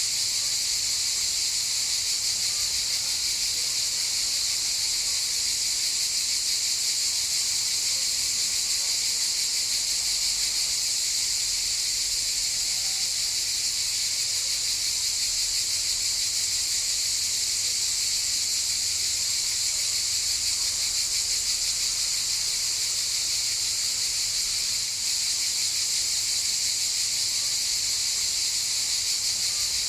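A chorus of cicadas buzzing continuously, a steady high-pitched drone that does not rise or fall.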